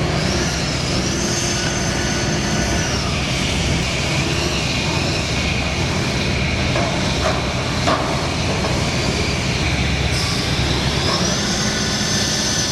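Diesel engine of a large excavator running steadily under load. A high whine rises and levels off twice, near the start and again about ten seconds in, and a few short knocks come around seven to eight seconds in.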